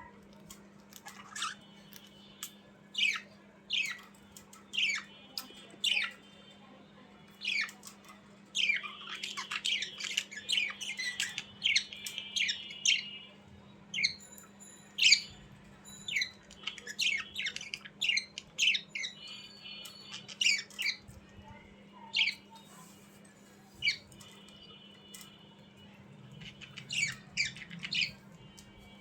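Budgerigars giving short, sharp squawks and chirps, with stretches of busier warbling chatter, over a faint steady low hum.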